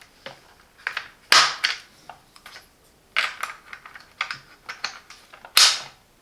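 Hard plastic clicks and knocks from the rotary brush and its cover being snapped back into the vacuum's brush head. There are two louder snaps, one just over a second in and one near the end.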